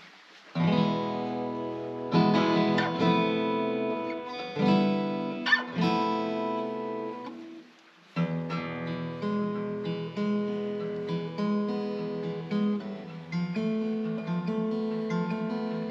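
Acoustic guitar playing chords. It breaks off briefly about eight seconds in, then starts again.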